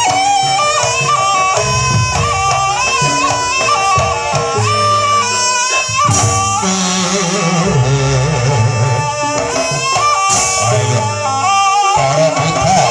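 Live jaranan buto ensemble music: a reedy slompret melody over drums and gongs. About halfway through, the texture changes to a brighter, more crashing sound.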